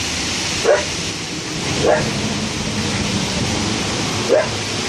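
A dog gives three short barks, the last after a longer pause, over a steady rush of storm wind and rain.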